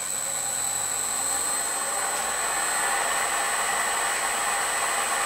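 Bridgeport milling machine running steadily with a steady high whine, its spindle turning a four-insert fly cutter that is not yet touching the steel.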